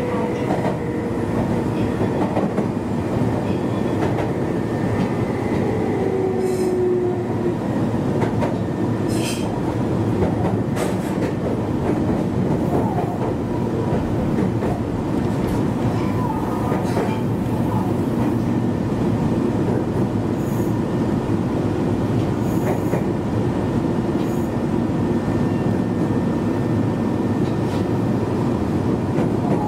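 Meitetsu 1200 series electric train running, heard from on board: a steady rumble of wheels on rail with occasional clicks. A whine falls in pitch over the first several seconds.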